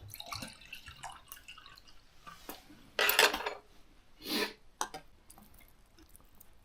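Eating sounds: light clinks of a spoon and dishes, with two short slurps of soup about three seconds and four and a half seconds in, the first the louder.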